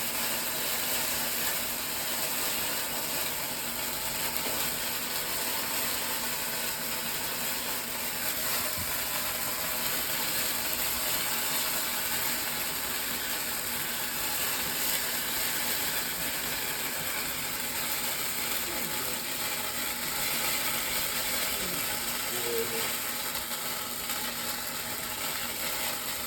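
Chicken frying in a pan: a steady, crackling sizzle.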